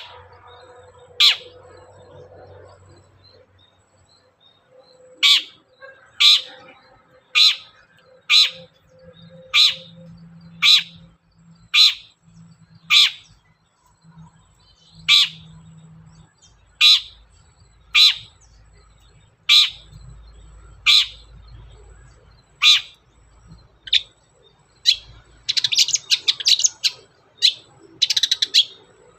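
Long-tailed shrike giving a series of sharp, harsh single calls, roughly one a second. Near the end they give way to a rapid burst of chattering.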